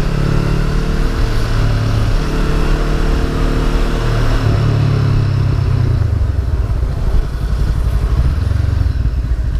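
Honda CB500F's parallel-twin engine running as the motorcycle is ridden, with wind noise on the microphone. About halfway through the wind noise fades and the engine note eases off, settling into a low, even pulse near the end as the bike slows.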